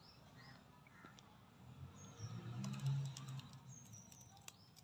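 Faint background of birds chirping in short high calls, with a few soft clicks near the end and a faint low hum through the middle.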